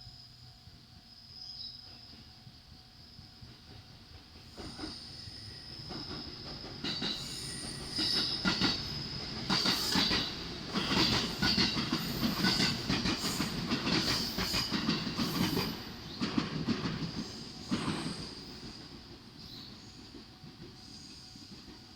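783 series limited express electric train passing, its wheels clattering over the rail joints with a steady high wheel squeal. It builds up, is loudest about halfway through, and fades away near the end.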